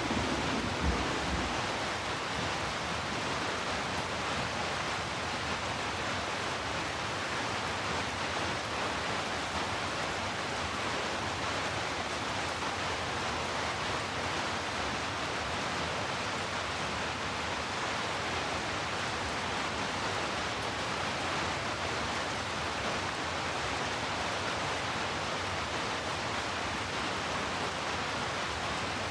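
Heavy rain falling as a steady, even hiss. The low rumble of distant thunder dies away in the first second or so.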